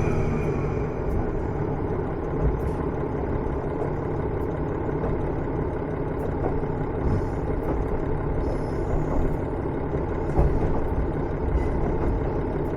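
Running sound inside a KiHa 110 series diesel railcar. The engine drops back from a loud pull just as the sound begins, then the car runs on as an even low rumble of wheels on rail with a few faint clicks.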